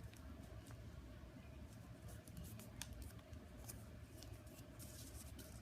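Faint crinkling and rustling of an origami paper model being folded and creased by hand, with scattered small sharp ticks of the paper over a steady low hum.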